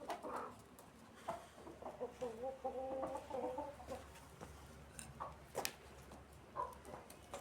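Chickens clucking in short calls, with one longer wavering call about two seconds in, and a couple of sharp clicks a little after halfway.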